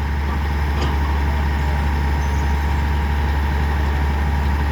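A motor running steadily with a low, even hum that does not change.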